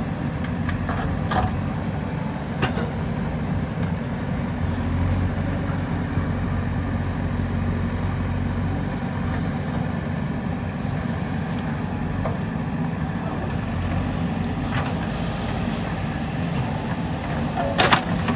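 JCB 3DX backhoe loader's diesel engine running steadily, with a few short knocks here and there and a louder cluster of knocks near the end.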